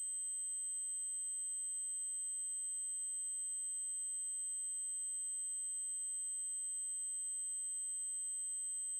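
A steady, unbroken 8192 Hz triangle-wave test tone: a single very high-pitched electronic whistle held at one constant level.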